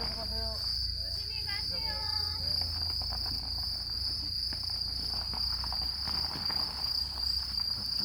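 Insects chirping in one steady, unbroken high trill, with a person's voice faintly over it in the first two seconds or so.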